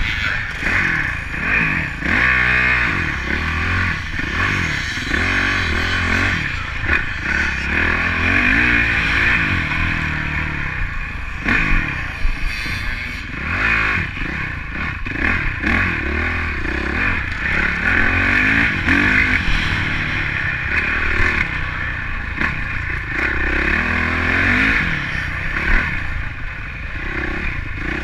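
Honda CRF motocross bike's single-cylinder four-stroke engine heard from the rider's onboard camera, revving up and falling back again and again as it is ridden through the corners of a dirt track, with frequent short knocks.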